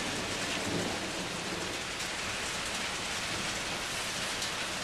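Heavy rain pouring down steadily in a thunderstorm, an even hiss of rain hitting surfaces.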